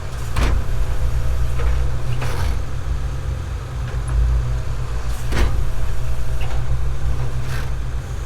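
Heavy diesel farm machinery running with a low, steady rumble, with a few short clanks or knocks over it.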